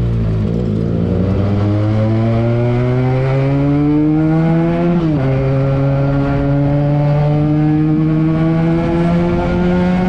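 Benelli TNT 300's 300 cc parallel-twin engine through an aftermarket Akrapovic exhaust, under way and pulling up through the revs. About five seconds in, the pitch drops sharply at a gear change, then climbs steadily again.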